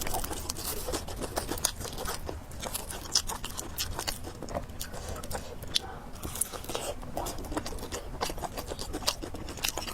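Close-miked chewing and biting of spicy fried noodles with pork: a steady run of small, irregular wet mouth clicks.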